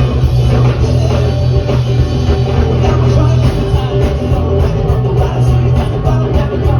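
Live rockabilly band playing loud rock and roll music with a strong, steady bass line.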